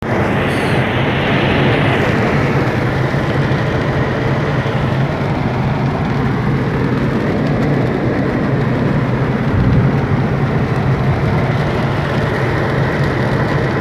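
Heavy rain with a steady low car rumble of engine and road noise underneath.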